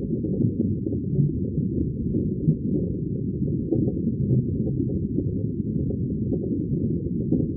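Underwater ambience: a steady, deep, muffled rumble of bubbling water with no high sound in it, small bubble pops flickering through.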